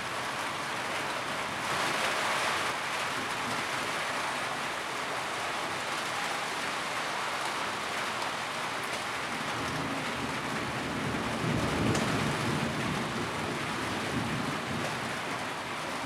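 Steady rain drumming on a tin roof, heavier for a moment about two seconds in. A low rumble swells and fades about three-quarters of the way through.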